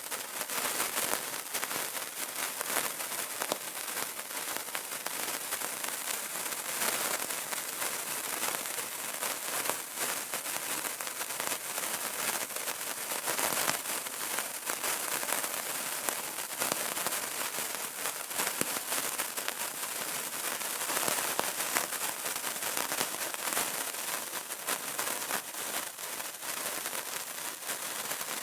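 Burning candle crackling: a dense, unbroken patter of small sharp pops and ticks, mostly high-pitched, keeping an even level throughout.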